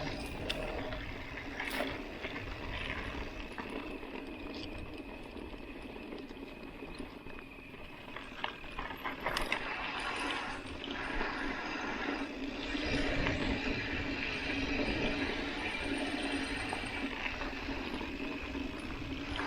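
Mountain bike rolling down a dusty dirt road: steady tyre noise and rattling of the bike, with a few sharp knocks over bumps.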